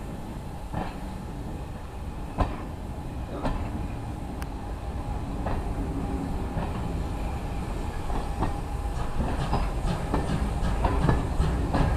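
Train running on track, its wheels clicking over rail joints, growing steadily louder with the clicks coming more often toward the end.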